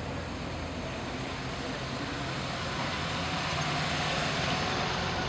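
A car engine running with a low rumble over a steady hiss of outdoor noise, growing slowly louder.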